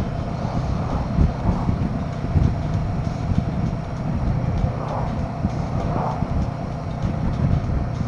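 Royal Enfield Himalayan 450's single-cylinder engine running while riding, under a heavy, uneven wind rumble on the microphone.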